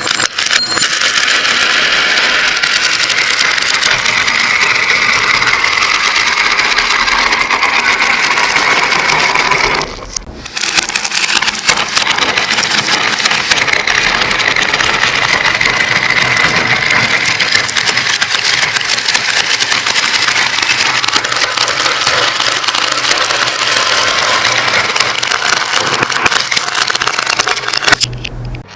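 Many glass marbles rolling and clattering down a marble run and spinning through funnels, a dense, continuous stream of clicks that breaks off briefly about ten seconds in.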